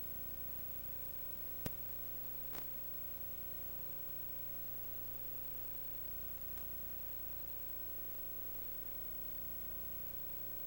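Steady electrical hum and hiss, with a sharp click about a second and a half in and a softer click about a second later.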